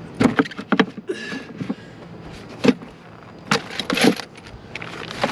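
Gear being handled and packed into a motorcycle's luggage: scattered clicks, knocks and rattles in several clusters, the loudest about two and a half to four seconds in.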